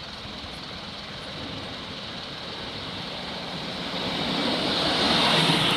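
Class 153 single-car diesel multiple unit approaching, its engine and wheel noise growing steadily louder over the last couple of seconds.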